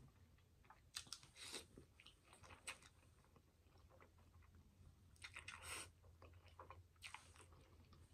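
Faint close-miked chewing of spaghetti with meat sauce: soft wet mouth clicks and smacks, with a longer, louder stretch about five seconds in.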